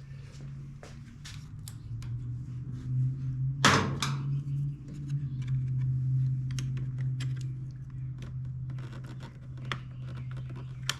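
Small clicks and knocks of hand tools and plastic and metal generator parts being handled, with one loud knock almost four seconds in, over a steady low hum.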